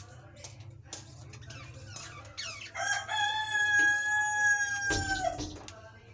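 A rooster crowing once: one long, level call of about two and a half seconds, starting a little before the middle and cutting off shortly after. Small birds chirp in short calls before it.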